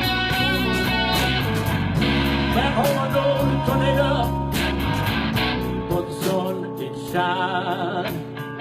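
Blues band playing: a guitar lead with bent, wavering notes over bass and drums.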